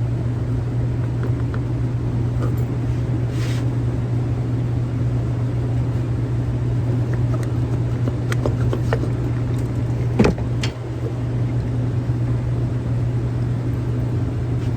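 Steady low machine hum, with a few sharp metallic clinks of hand tools near the end, the loudest about ten seconds in.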